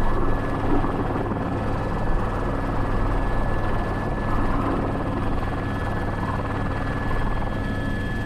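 Airbus H125 (AS350 B3) single-turbine helicopter running, heard from the cockpit: a steady low rotor drone with a constant thin high whine over it.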